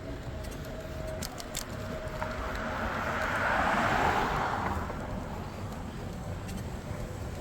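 A car passing, its noise swelling and fading over about three seconds in the middle, over steady low wind and road rumble.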